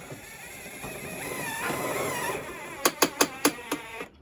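Background music with a wavering melody, then a quick run of six sharp knocks, about five a second, about three seconds in.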